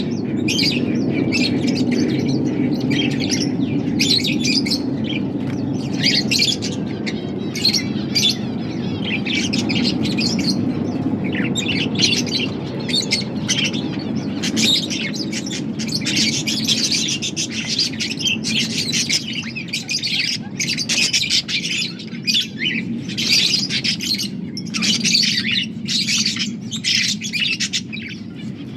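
Budgerigars chirping continuously in a dense stream of rapid chirps, over a steady low hum that fades somewhat after the first half.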